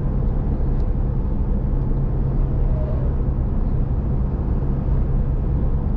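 Steady engine and road noise of a truck driving on a highway, heard from inside the cab: an even low rumble with no changes.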